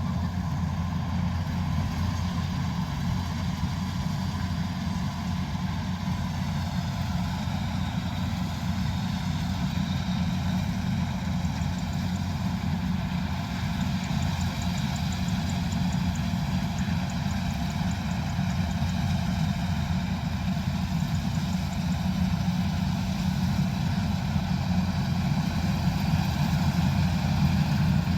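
Combine harvester's diesel engine running steadily, a deep engine sound that grows a little louder near the end.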